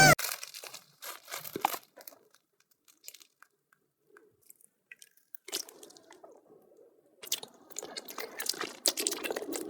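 Close-up crunching and chewing sounds in irregular crackly bursts. They are nearly quiet for a few seconds in the middle, then come back denser and louder near the end.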